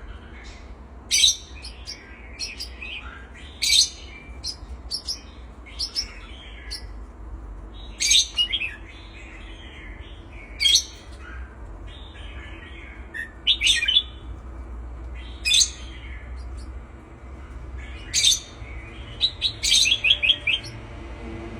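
Pet birds giving short, sharp, high chirps every second or two, with a quick run of about five chirps near the end, over a low steady hum.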